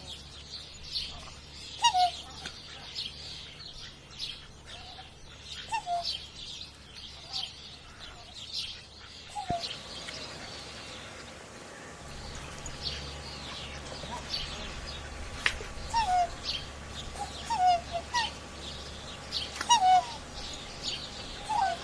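Songbirds chirping: many short high chirps mixed with lower, downward-slurred call notes repeated every second or two.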